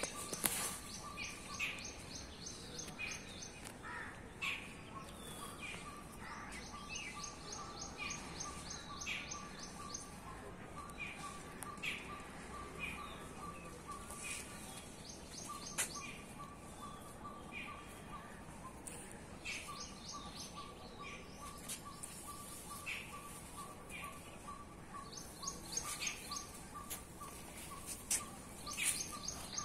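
Birds chirping on and off, with bursts of a rapid high trill about two seconds long recurring every several seconds, over a faint steady high tone that comes and goes.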